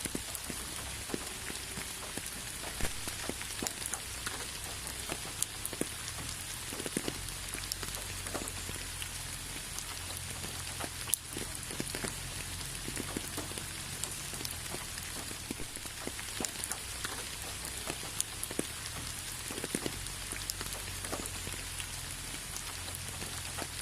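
Steady rain falling, a continuous hiss with many separate drops ticking and pattering on a surface.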